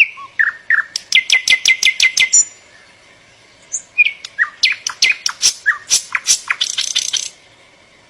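A songbird singing two fast phrases of sharp, repeated chirps, about five notes a second. The first phrase stops about two and a half seconds in, and the second starts about a second later.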